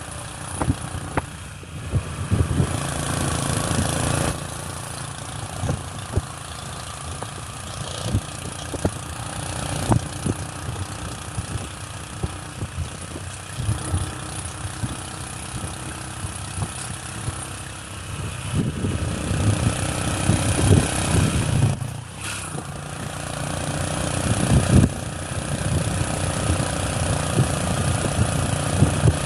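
Motorcycle engine running on the move under a steady rushing noise, with frequent short knocks and rattles. The sound swells louder for a stretch in the second half.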